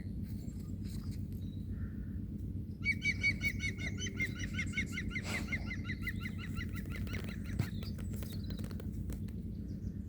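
A bird calling a fast run of evenly repeated notes, about eight a second, for some four seconds, over a steady low rumble, with scattered clicks near the end.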